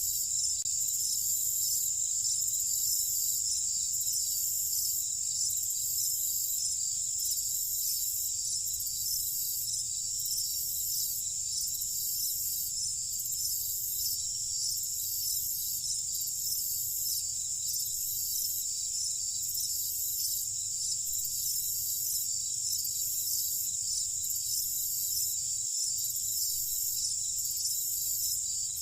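Steady high-pitched chorus of crickets chirping, with a slow, even pulsing in its highest part.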